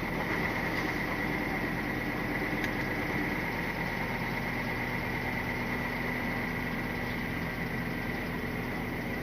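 Scania R450 lorry's diesel engine idling steadily, with a steady high whine over it.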